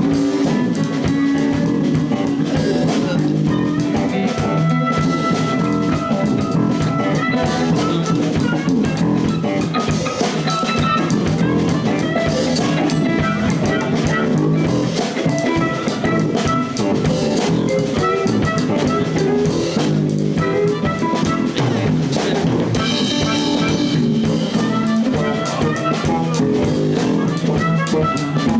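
Live blues band playing: guitar over a drum kit, with loud, steady playing throughout.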